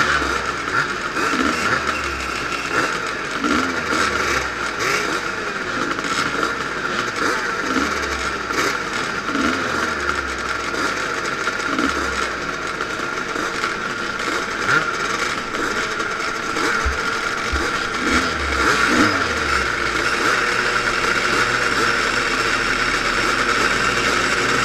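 Vintage motocross motorcycle engines running steadily with a rattle, getting louder over the last few seconds.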